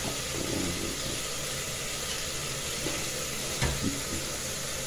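Onion frying in oil in an aluminium saucepan, a steady sizzle while it browns, with one light knock about three and a half seconds in.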